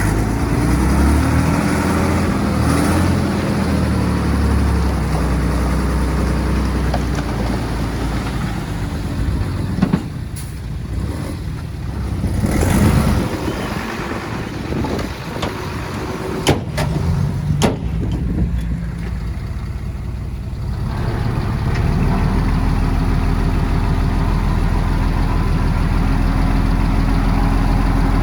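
Heavy diesel earthmoving machinery running, its engine pitch shifting in the first few seconds. Around the middle come a hiss and a few sharp metallic knocks. Near the end the engine settles into a steady low run.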